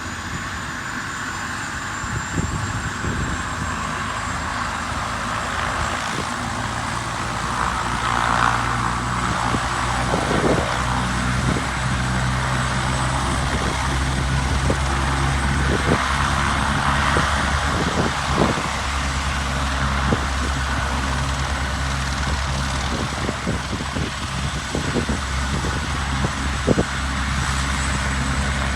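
Gusty wind rumbling on the microphone, with irregular low thumps and a steady whirring hiss that swells a little about eight and seventeen seconds in, over two faint, steady high tones.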